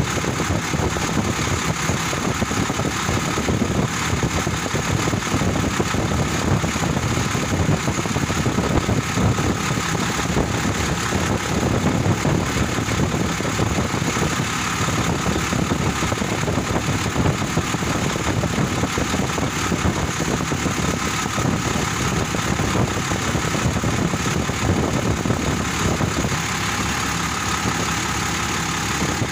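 Vehicle engine idling steadily, running so that the air-conditioning system can be charged with refrigerant.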